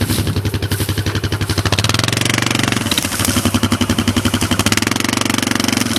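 ATV engine running as the machine is driven through a boggy trail section, a rapid steady firing beat whose revs shift a couple of seconds in.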